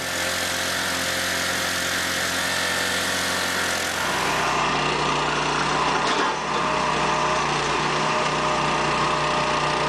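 Small engine-driven machine running steadily; the sound shifts about four seconds in to a steadier, lower hum.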